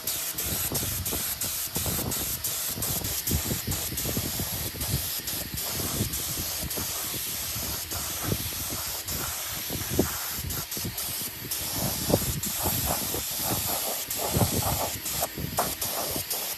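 A steady spraying hiss, with many small clicks and low knocks over it.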